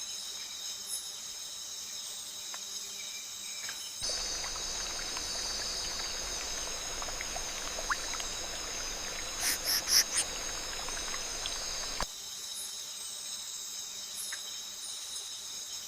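A steady, high-pitched chorus of insects, several droning tones held together. Through the middle stretch the chorus sits under a broader hiss, and a few short, sharp, loud chirps come about two-thirds of the way in.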